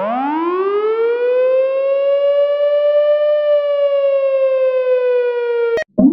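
Police vehicle siren winding up from a low pitch to a single held wail over about a second and a half, easing slightly lower, then cutting off abruptly near the end.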